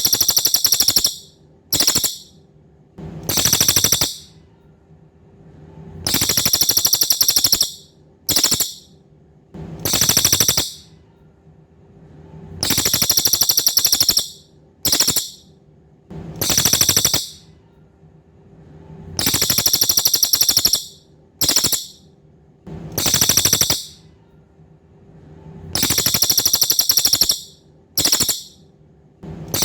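A cililin songbird singing: a high, rapid rattling trill about a second and a half long, then a short burst of the same trill, the pair repeated about every three seconds.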